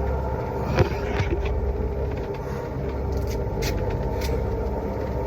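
A sailing yacht's inboard engine running steadily, a low rumble with a constant hum, heard from inside the cabin while the boat pitches in heavy swell. A few brief knocks and rattles from gear moving about in the cabin come through it.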